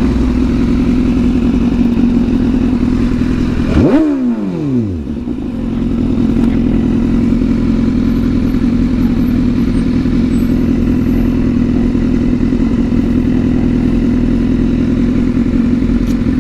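Sport bike engine running steadily under way, revved briefly about four seconds in, then dropping quickly in pitch as the throttle closes before settling back to a steady note.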